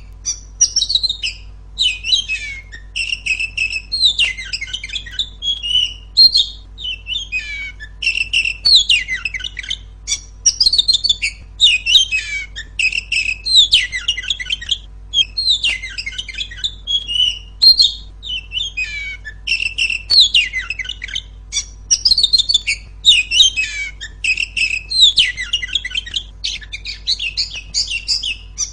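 Female Oriental magpie-robin (kacer) calling loudly: rapid strings of shrill chirps and short twittering phrases, one after another with only brief pauses.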